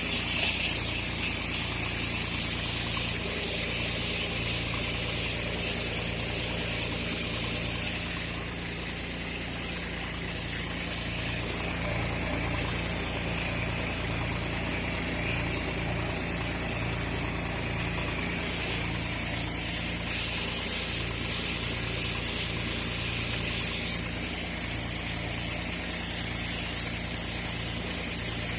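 Tractor engine running steadily, with a hiss on top, typical of a tractor-driven pesticide sprayer at work. There is a short louder noise right at the start.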